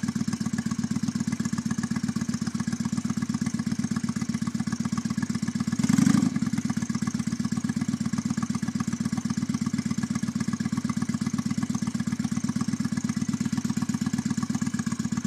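Cruiser motorcycle engine idling with a steady, even pulse; it swells briefly about six seconds in.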